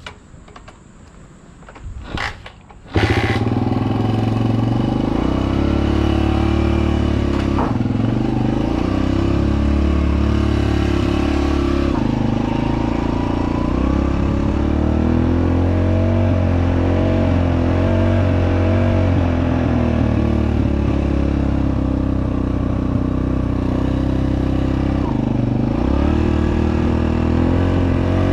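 Dirt bike engine with a freshly cleaned carburettor catching about three seconds in, after a few clicks. It then runs steadily with small rises and falls in pitch and dips briefly a few seconds before the end.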